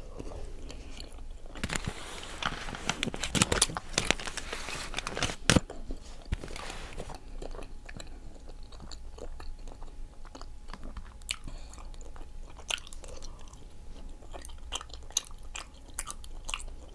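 Close-up chewing of octopus: wet mouth clicks and smacks, busiest in the first half and then slower and sparser.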